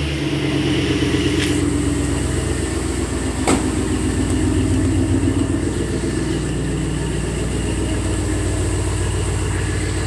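V8 exhaust through dual Black Horse mufflers, pipes dumped out under the vehicle, idling steadily just after start-up, warm rather than a cold start; very deep lows. A single sharp click about three and a half seconds in.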